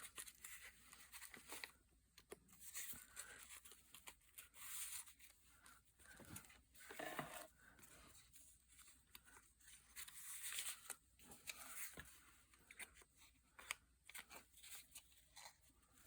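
Faint rustling and sliding of paper being handled, with scattered small ticks and taps, as tags and a folded book-page pocket are moved about.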